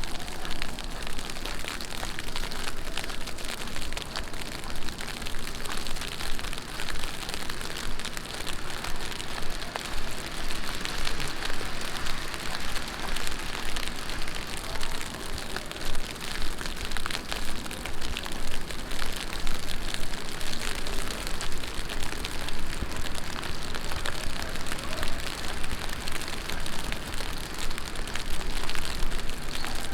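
Heavy rain falling steadily: a dense hiss made of many small drop impacts.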